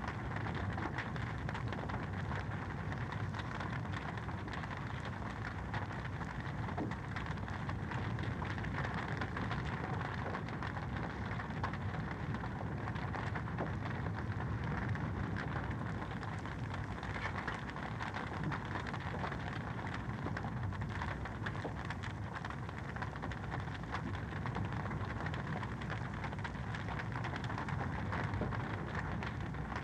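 Wood fire crackling in a fireplace: a dense, steady stream of small pops and crackles over a low, even rush of flame.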